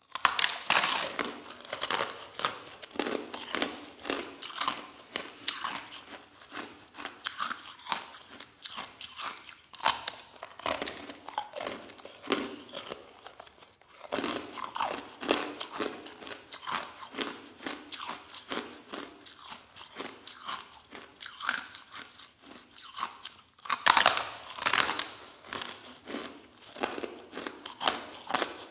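A person chewing soft crushed ice close to the microphone: continuous irregular crunching bites, heavier for a few seconds near the end.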